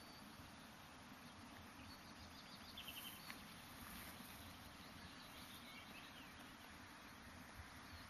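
Near silence: faint outdoor ambience with a few faint, short high bird chirps about three and five seconds in.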